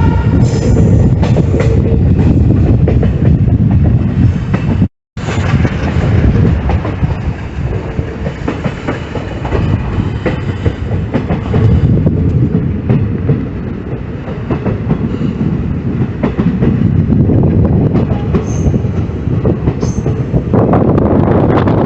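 Train running on the rails, heard from on board: a steady heavy rumble with the wheels clacking over rail joints and a faint wheel squeal in the first couple of seconds. The sound cuts out for a moment about five seconds in, and the rush grows brighter and louder near the end.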